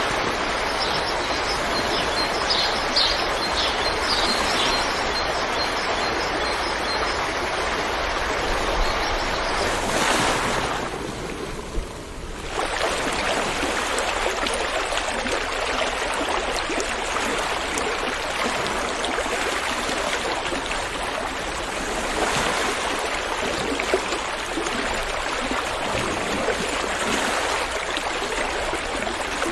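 River water rushing steadily over rocks, an even rush that thins briefly about eleven seconds in before carrying on as before.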